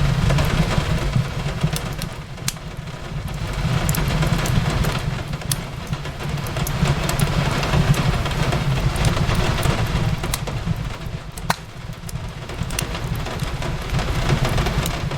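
Fireplace crackling, with scattered sharp pops, over steady rain falling on a window and a low rumble underneath.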